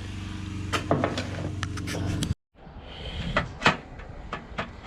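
Scattered clicks and knocks of a small carburetor and its metal parts being handled, over a steady low hum. The sound cuts out about two and a half seconds in, and the clicking of parts resumes.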